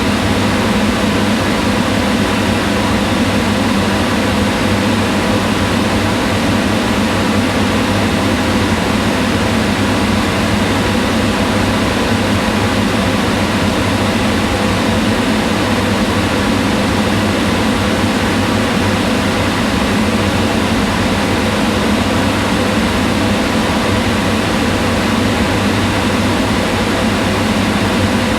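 Kitchen range hood exhaust fan running steadily, a constant whooshing rush of air with a low hum.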